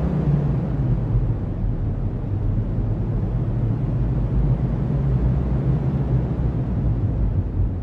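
Strong cyclone wind blowing steadily, a deep rushing noise that wavers slightly in strength with no distinct gusts or impacts.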